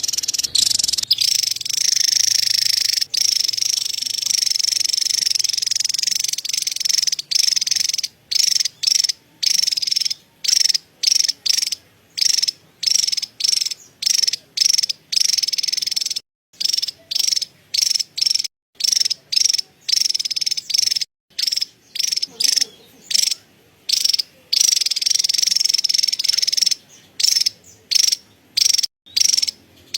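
Javan tesia giving its high-pitched chattering trill (cerecet), unbroken for the first quarter or so, then in short bursts of about half a second to a second with brief gaps between.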